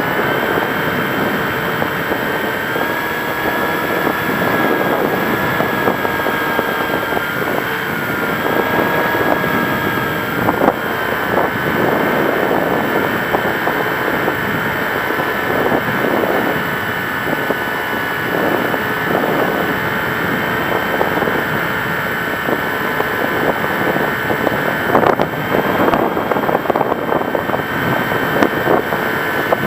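Model aircraft's motor and propeller running steadily over wind rush, with a whine that drifts slightly up and down in pitch.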